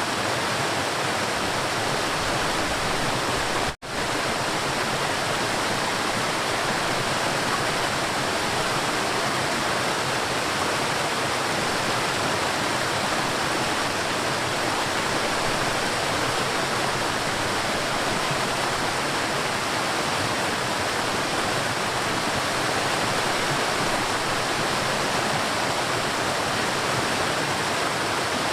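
River water rushing and flowing steadily, a dense even wash of water noise. It cuts out for an instant about four seconds in, then resumes unchanged.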